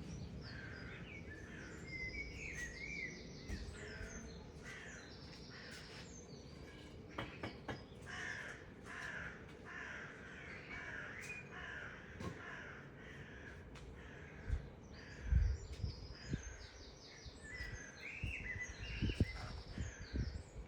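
Birds calling repeatedly, harsh calls every second or so, with a few low thumps about three quarters of the way in and near the end.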